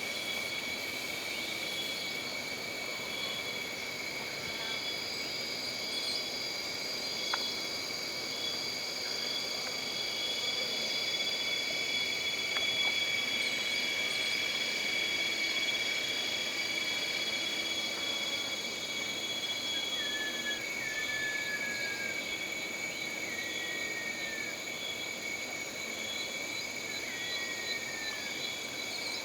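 Jungle ambience: a steady chorus of insects trilling at several high pitches at once. In the last third a bird gives a short falling whistle four times.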